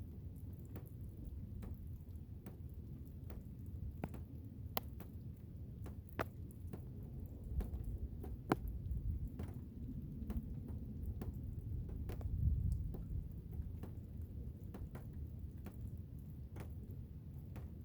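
Blizzard wind, a low steady rumble, with scattered irregular sharp ticks and taps over it; the rumble swells briefly about twelve seconds in.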